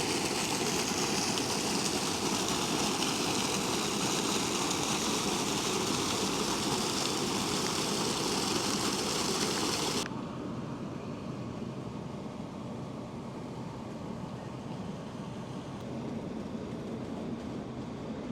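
Train noise: a loud, steady rushing noise that stops abruptly about ten seconds in, leaving a quieter steady background noise.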